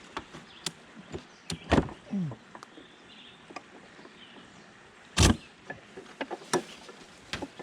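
A ratchet tie-down strap on a beehive being worked loose: a run of clicks and rattles, with two loud knocks, one about two seconds in and another about five seconds in.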